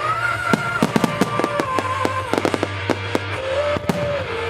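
Aerial fireworks bursting in a rapid string of sharp bangs and crackles for about three seconds, with one more bang near the end. A pop song with a held sung melody plays underneath.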